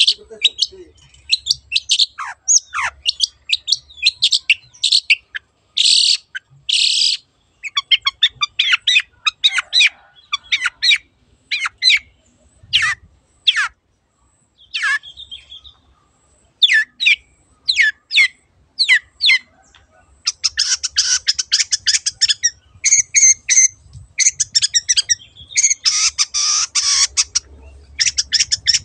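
Long-tailed shrike (cendet) singing hard: a fast, varied run of short sharp notes, downward-sliding whistles and harsh rasps, thickening into an almost unbroken harsh chatter in the last third.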